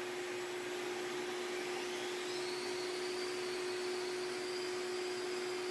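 DeWALT 20 V brushless drywall sander running with a shop vac hooked to its dust port: a steady motor hum and suction noise. A faint high whine rises about two seconds in and then holds.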